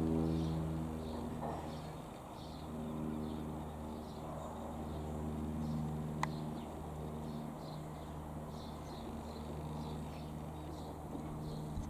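Cessna 152 light aircraft's piston engine and propeller droning steadily as it flies past, dipping briefly about two seconds in. Small birds chirp repeatedly over the drone.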